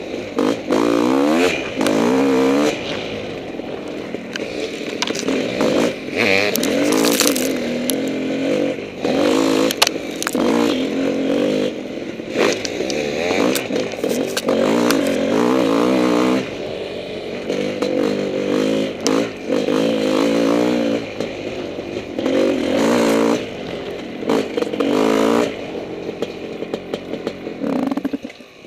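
Honda CR500 single-cylinder two-stroke dirt bike engine revving up and down as it is ridden on a trail, the throttle opening and closing every second or two. Sharp clatters and knocks from the bike going over rough ground are mixed in.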